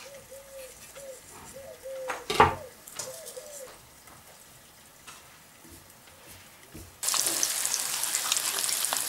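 Flour-dredged pieces of carp offal going into hot oil in a cast-iron frying pan: a sudden loud, steady sizzle starts about seven seconds in. Before it, quiet kitchen handling with a single knock.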